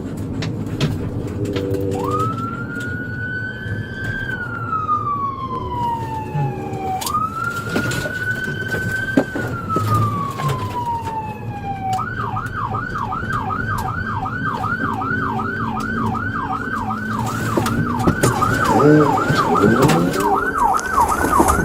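Police patrol car siren. It starts about two seconds in with two slow rising-and-falling wails, then switches to a fast yelp of about two and a half sweeps a second. Vehicle rumble runs underneath.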